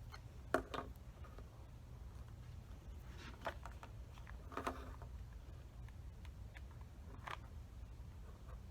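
A few light clicks and taps from handling wooden craft sticks and a hot glue gun, spaced several seconds apart, over a steady low hum.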